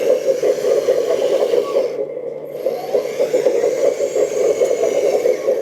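RC hydraulic excavator running with its hydraulic pump and track drive motors whirring steadily while the machine turns on its tracks. The upper part of the sound dips briefly about two seconds in.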